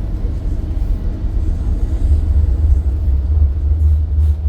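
Steady low rumble of a tram in motion, heard from inside the carriage, growing louder about two seconds in.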